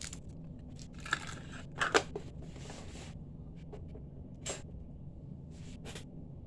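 Small parts and packaging being handled on a work table: brief rustles and a few sharp clicks, the loudest about two seconds in, over a faint steady low hum.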